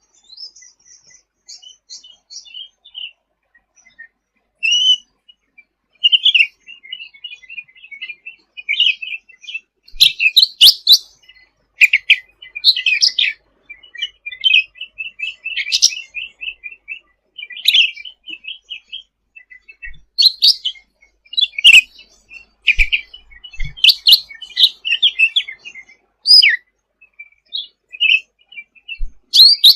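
A cucak ranting songbird singing: rapid chattering runs of high chirps and trills, continuous, with several louder bursts of song.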